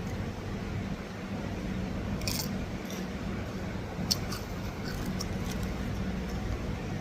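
Eating sounds: a few light clicks of metal utensils against a bowl, with soft chewing, over a steady low background hum.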